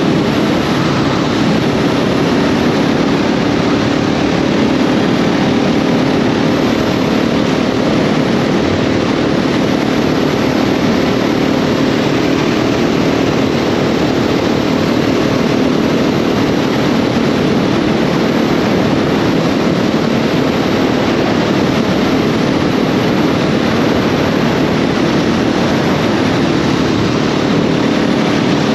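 KTM 690 SMC R's single-cylinder engine running at a steady speed while riding, under a loud, even rushing noise. The engine note holds steady with no revving or shifting.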